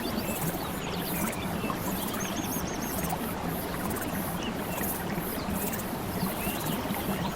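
Relaxing ambience of steady flowing water, with scattered short high chirps and a fast, rhythmic high pulsing running through it.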